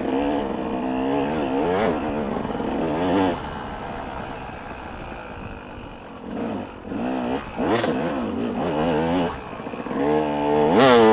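Motocross bikes racing on the track, engines revving up and down over and over. The engines fade somewhat in the middle, then come back, and the loudest bike passes close near the end.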